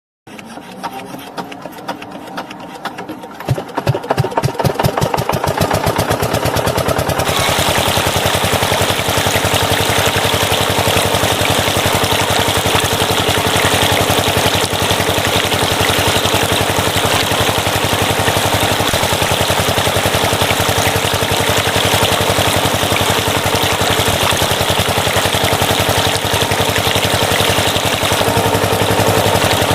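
Diesel water-pump engine starting: irregular firing that speeds up and grows louder over the first several seconds, then runs on at a steady rapid chug. About seven seconds in, a steady hiss joins it.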